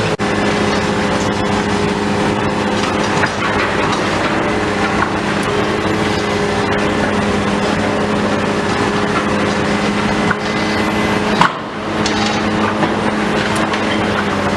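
A heavy demolition machine's engine running steadily, with scattered cracks and crunches of material breaking up.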